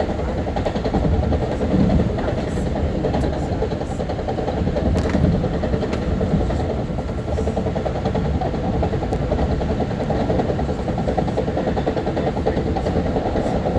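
Long Island Rail Road M3 electric train running along the track, heard from on board: a steady rumble of wheels and running gear with a steady hum, and a few faint clicks.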